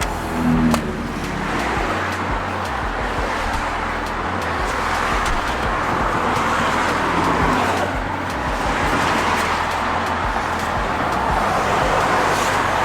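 Steady road and engine noise of a vehicle driving on the road while towing a car trailer.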